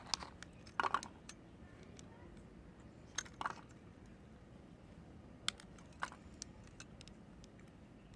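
Bars of soap being handled: scattered light clicks and taps, with a few slightly fuller knocks around a second in and again about three and a half seconds in.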